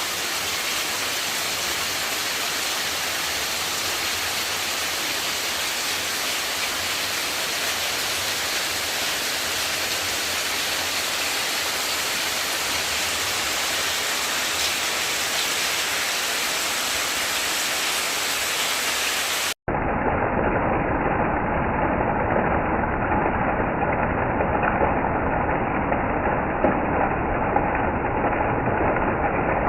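Steady rushing of water, an even hiss with no single event in it. About two thirds of the way through it cuts off suddenly to a duller, muffled steady noise from another recording, its source unclear.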